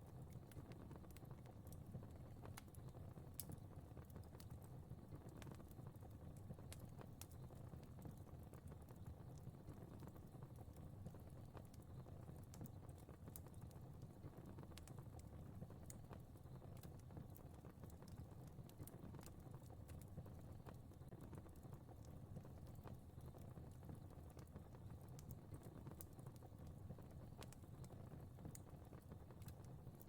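Faint fire crackling in a fireplace: irregular small pops and snaps over a low, steady rumble.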